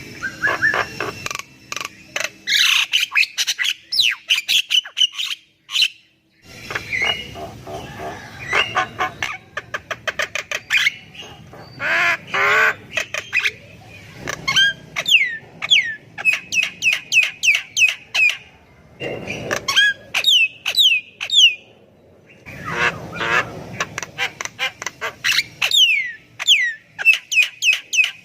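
Javan myna (jalak kebo) singing in long bouts: a rapid jumble of harsh squawks, clicks and short falling whistles, with brief pauses between bouts.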